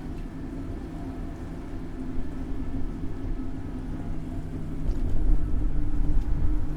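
City street traffic: a steady engine hum over a low rumble, growing louder about five seconds in.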